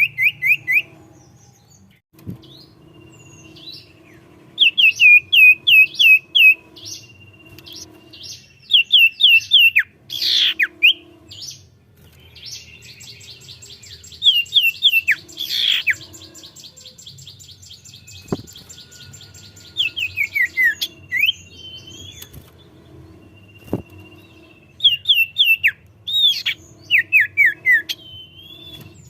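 Common iora (cipoh) singing hard: repeated runs of quick, falling whistled notes, and a long rapid trill about halfway through.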